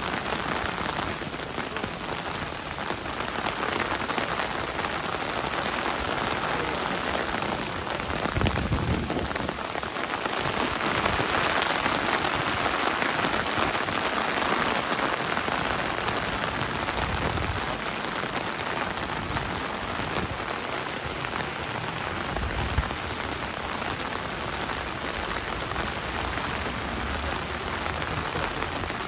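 Heavy rain falling steadily, growing louder for a few seconds in the middle.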